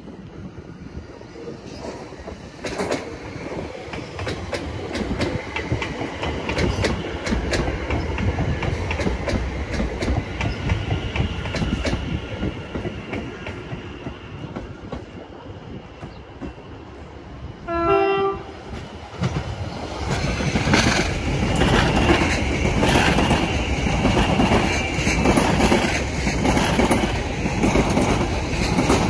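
Rail rumble from trains on the line, with one short train-horn blast midway. After that an Elizabeth line Class 345 electric multiple unit passes close at speed, louder, its wheels beating a regular clickety-clack over the rail joints.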